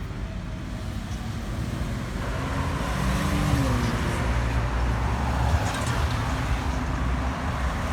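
A car engine running, getting louder about three seconds in and staying there.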